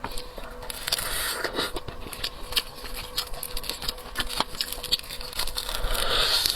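Close-miked eating of seafood: chewing and working at shellfish, with many small irregular clicks and crackles and patches of wet, smacking noise.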